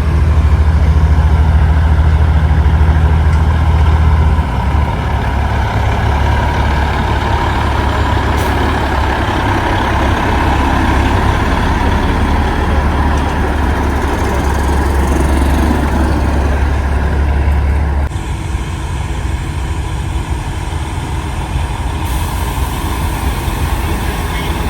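Big-rig semi trucks' diesel engines running as the rigs move in convoy: a heavy low drone that eases slightly about four seconds in and drops off sharply about eighteen seconds in.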